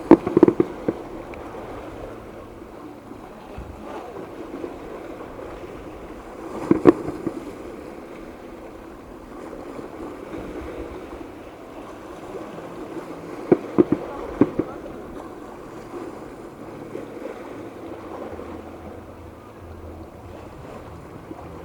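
Fireworks going off in three short clusters of sharp bangs: one near the start, one about 7 s in and a group of several bangs about 13 to 14 s in. Between them a steady noise of surf and a crowd murmur continues.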